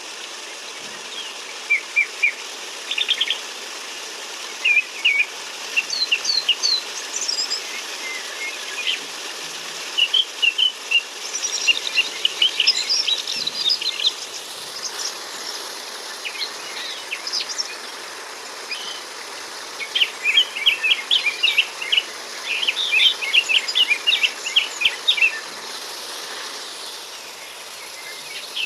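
Birds chirping and trilling in quick repeated bursts, busiest near the middle and again in the last few seconds, over a steady background hiss.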